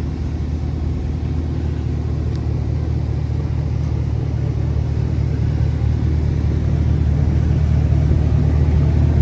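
Car engine running with a steady low rumble, growing slowly louder.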